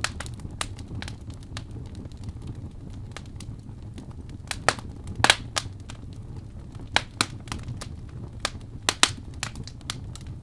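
Wood fire burning in a fireplace: irregular sharp crackles and pops over a steady low roar, with a cluster of louder pops around the middle and near the end.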